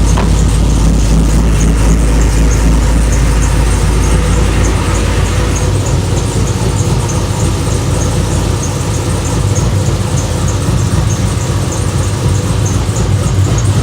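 Supercharged 6.2-litre V8 of a 2011 Chevrolet Camaro SS idling steadily through a Borla exhaust.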